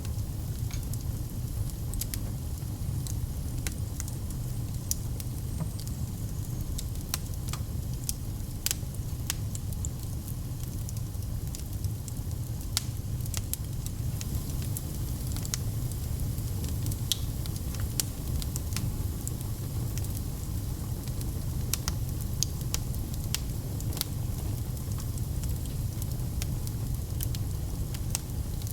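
Wood fire crackling: frequent sharp, irregular pops and snaps over a steady low rumble.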